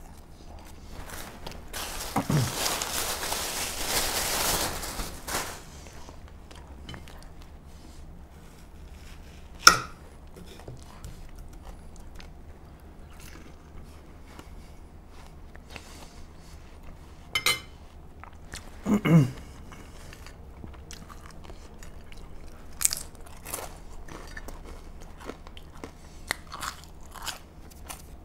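Close-up eating sounds: crunching and chewing of crispy air-fried potato fries, with a loud crunchy stretch about two seconds in and small wet mouth clicks throughout. Two brief closed-mouth hums, one early and one about two-thirds through.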